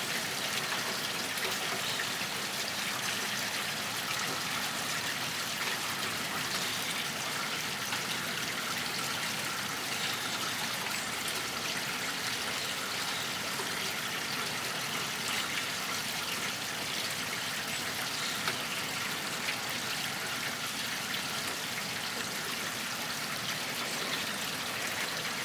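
Slow, steady rain falling, an even wash of water sound with a few slightly louder drops here and there.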